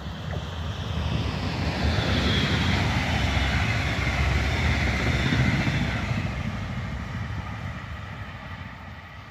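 Electric-hauled double-deck regional push-pull train passing at speed: a rushing of wheels and air that swells over the first couple of seconds, stays loud for a few seconds, then fades as the train moves away.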